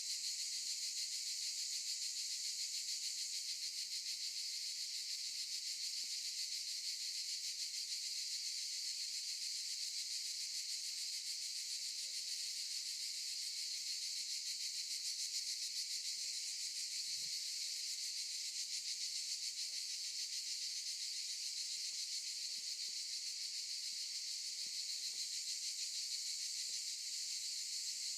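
Cicadas buzzing in a continuous, steady high-pitched drone.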